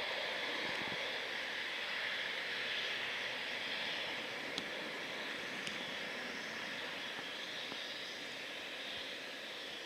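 Jet airliner-type aircraft engines running as a steady, hissing whine that slowly fades.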